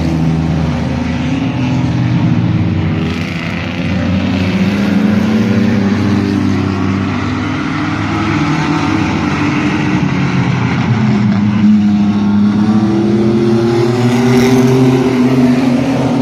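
Engines of racing mini trucks running laps around an oval track, several at once, their pitch rising and falling as they throttle off into the turns and accelerate out. There is a dip in engine pitch a few seconds in and a rise again near the end.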